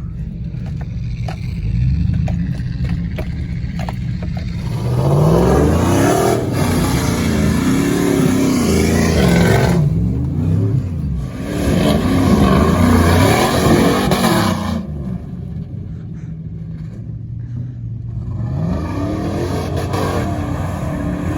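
Pickup truck engine revved again and again, its pitch climbing and falling in repeated sweeps, dropping back to a steadier run for a few seconds before revving up again near the end.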